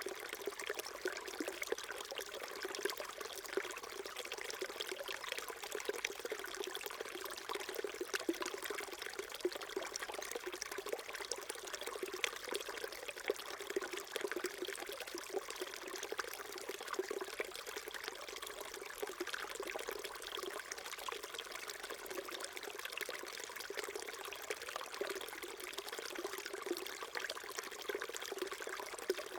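Small stream flowing over rocks, a steady babbling trickle with small splashes flickering through it.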